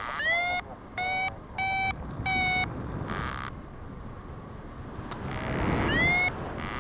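Paragliding variometer beeping its climb tone, meaning the glider is rising: four short beeps in quick succession, some sliding upward at the start, then a faint one, and a longer beep near the end. Wind rushes on the microphone, swelling shortly before the last beep.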